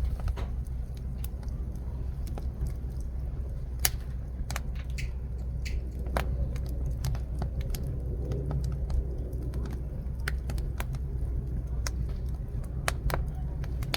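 Jujube-wood fire crackling, with irregular sharp pops over a steady low rumble; a louder pop about four seconds in and another near the end.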